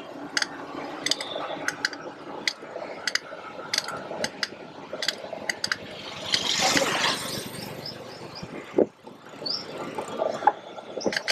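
Street ambience: scattered sharp clicks and clinks throughout, a rushing swell of noise about six seconds in, and a few bird chirps near the end.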